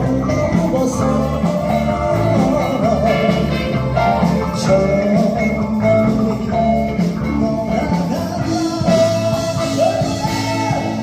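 Live rock band playing: drums, bass and electric guitar, with a bending, wavering lead melody over them.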